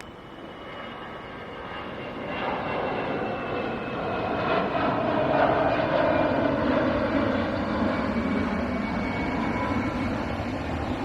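An airliner flying over. The jet noise swells to its loudest about five seconds in, then eases, with a high whine that slowly falls in pitch as it passes.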